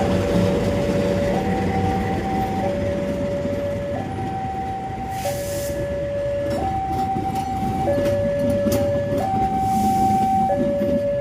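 Railway level-crossing alarm sounding a steady two-tone alternation, high then low, each tone lasting a little over a second, over the rumble of a passing train.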